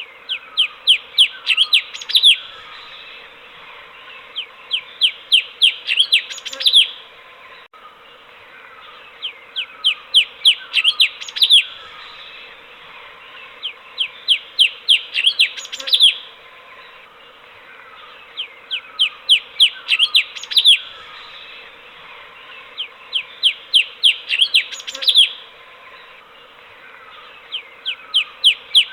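Cucak cungkok singing: short bursts of quick, repeated sweeping notes, each burst running six to ten notes and ending on a louder note, coming about every four to five seconds. A faint steady hum sits underneath.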